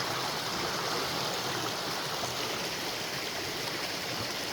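Mountain creek flowing close by: a steady, even rush of water.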